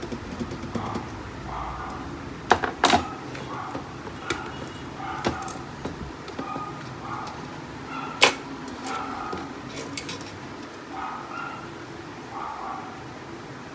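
Plastic parts of a Canon MF4820d laser printer being handled and fitted back together: sharp clicks and knocks, a quick pair about two and a half seconds in and a louder single clack about eight seconds in. Faint short sounds repeat in the background throughout.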